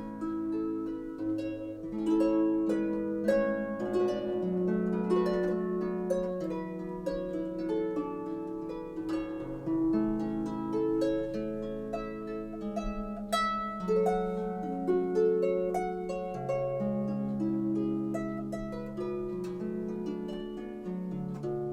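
Background harp music: a steady flow of plucked notes ringing on over one another.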